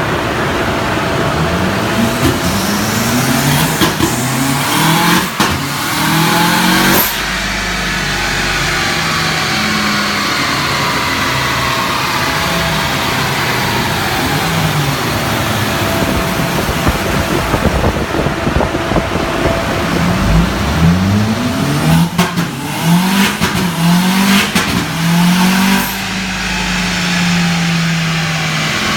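Turbocharged Honda Civic Type-R FN2's four-cylinder engine accelerating at full throttle through the gears twice, revs climbing and dropping in steps at each upshift, with brief sharp cracks at the shifts from the flat-foot-shift ignition cut. Between the two runs the engine runs lighter with the pitch slowly falling.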